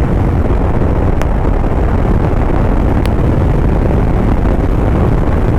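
Suzuki motorcycle under way at speed: steady loud wind rush buffeting the microphone over the bike's road and engine noise, with a few faint sharp ticks.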